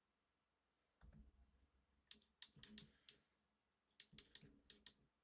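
Faint clicking at a computer: a soft thump about a second in, then a quick run of about five clicks around the middle and another of about six near the end.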